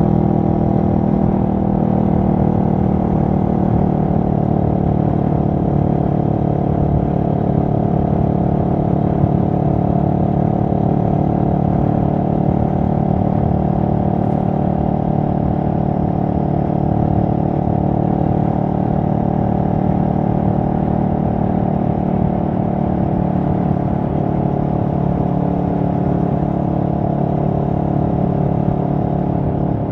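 A CFMoto 650NK's parallel-twin engine running steadily at a nearly constant engine speed, its pitch holding almost level throughout.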